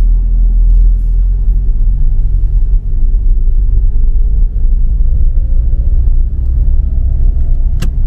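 Car on the move: a steady low road rumble, with a faint engine tone slowly rising in pitch from about three seconds in, and a single sharp click near the end.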